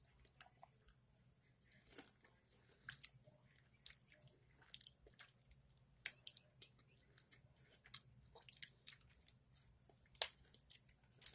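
Someone chewing a Reese's Crispy Crunchy candy bar close to the microphone: soft, irregular crunches and mouth clicks, with one louder crunch about six seconds in.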